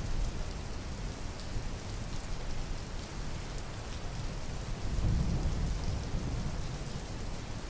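Steady rain falling, with a low rumble swelling about five seconds in.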